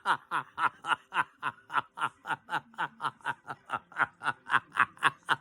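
Laughter in a long, unbroken run of short snickering pulses, about four a second, each one falling in pitch.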